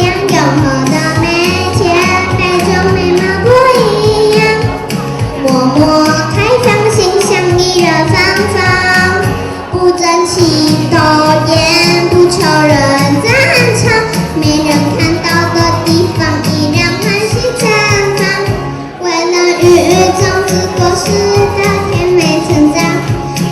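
A child singing a Mandarin pop song over a recorded musical accompaniment, with short breaths between phrases about ten and nineteen seconds in.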